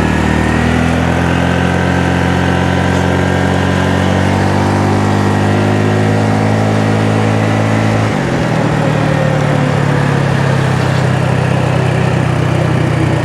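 Honda Navi's small single-cylinder engine running under way, its note creeping up gently, then dropping in pitch about eight seconds in and holding steady after.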